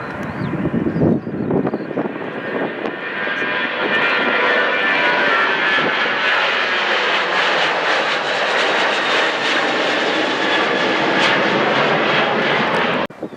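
Jet airliner engines growing louder over the first few seconds, then running steadily with a rushing noise and a whine, until the sound cuts off abruptly near the end.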